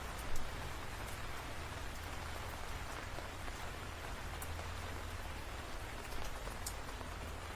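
Steady rain falling, with individual drops ticking sharply. One louder drop or tap comes about half a second in.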